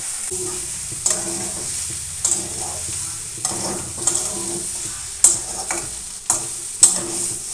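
Pumpkin stems and potatoes frying down with spice paste in a metal kadai, sizzling steadily while a metal spatula stirs and scrapes against the pan, with a sharp scrape every second or so.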